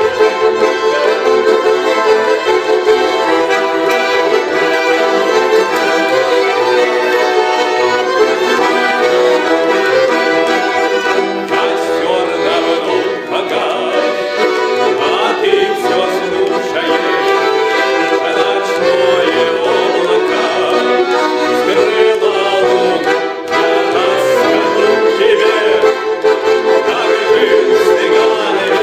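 Accordion music: garmon and bayan playing a folk-style melody with sustained chords, with a violin adding wavering lines in places.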